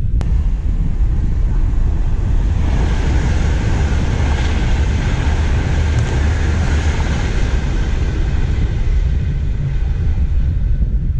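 A passenger train passing at speed on the main line. Its rush of wheel and air noise swells in about two seconds in, peaks midway and fades away near the end, over wind buffeting the microphone.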